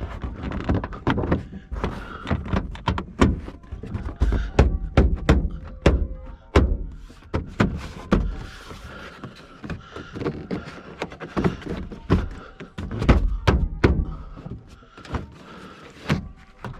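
Irregular knocks and thumps, from car interior trim and rear-seat parts being handled and pressed back into place, with a brief rustle about halfway through.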